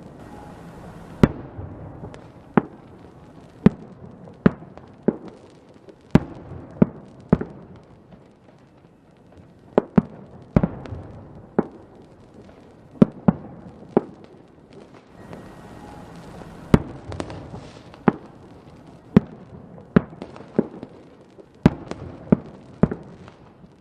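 Fireworks going off: a run of sharp bangs at irregular intervals, about one a second, some in quick pairs, over a steady crackling hiss.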